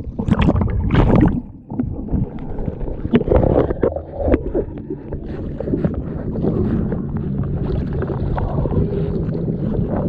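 Water sloshing and splashing around a capsized small sailboat, with wind buffeting the microphone; a few louder splashes come in the first second or so, then the water noise settles into a steadier wash.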